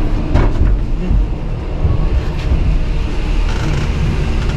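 Gondola lift station machinery running with a steady low noise, with a few short knocks as the cabins move through the station.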